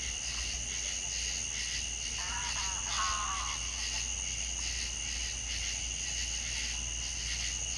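A steady chorus of insects trilling at two high pitches, over a low background rumble. A brief warbling animal call rises and falls about two to three seconds in.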